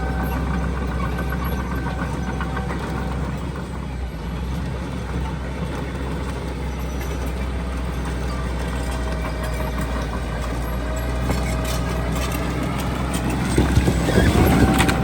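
Heavy diesel earthmoving machinery running steadily, with a deep engine note throughout. It gets louder near the end, with a brief rise in engine pitch and some knocks.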